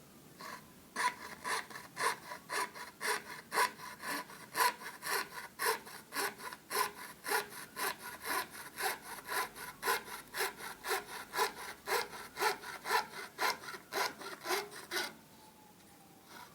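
Hand saw cutting through multiplex plywood in steady back-and-forth strokes, about three a second. The sawing starts about a second in and stops shortly before the end.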